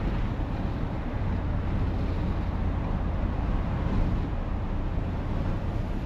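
Motor vehicle on the move: a steady low engine and road rumble.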